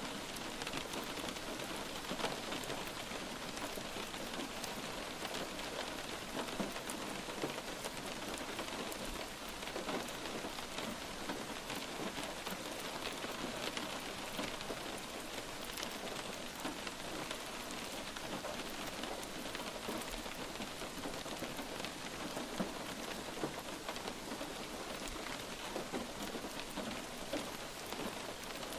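Steady light rain falling and pattering on a surface, with many small individual drops ticking throughout.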